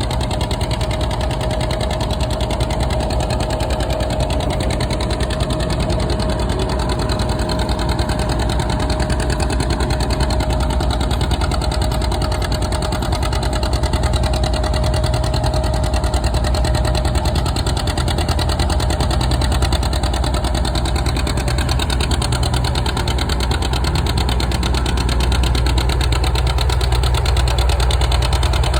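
Antique farm tractor engine running steadily and loudly, with a fast, even firing pulse and a steady tone that fades out about two-thirds of the way through. It gets a little louder near the end.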